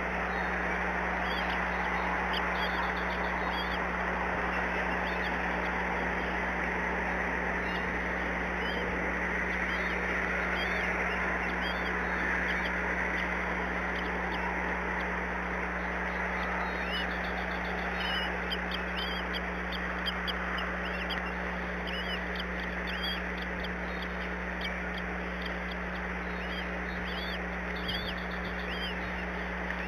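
Thin, high bird calls repeated in quick series over a steady background hiss and low hum, growing busier about halfway through.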